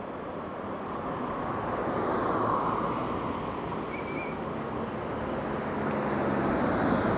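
Road vehicle noise: a steady rushing sound of passing traffic that swells about two and a half seconds in and again near the end.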